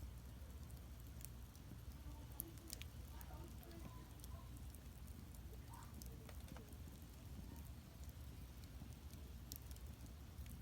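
Firewood burning in an agungi (traditional Korean wood-fired firebox): a low steady rumble of the fire with scattered crackles and pops, a few sharper ones a couple of seconds in.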